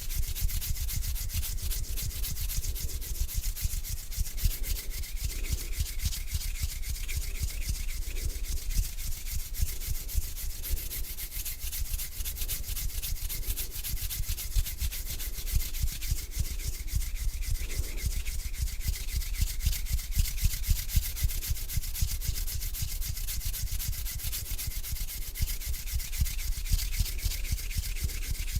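Hands rubbing slowly together, dry skin on skin: a continuous fine scratchy swishing with no pauses.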